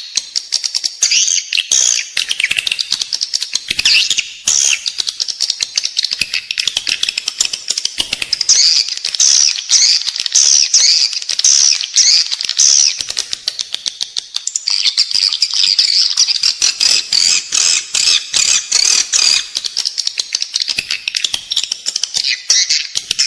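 Edible-nest swiftlet calls: rapid, continuous high twittering with many short rising-and-falling chirps. This is the 'inside the building' lure call track played in swiftlet houses to draw the birds in to roost and nest.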